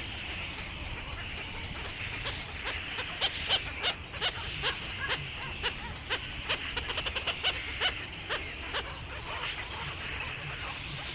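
A flock of small birds chirping, with many short, sharp calls that come thickest through the middle, over a steady high-pitched background chatter.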